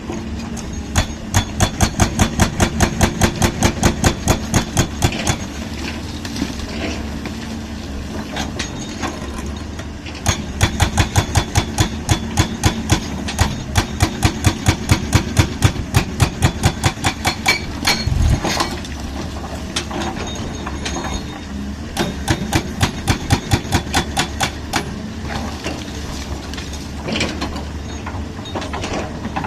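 Concrete breaker hammering in three long runs of rapid, even blows, over a steady running engine, with a single heavier knock between the second and third runs.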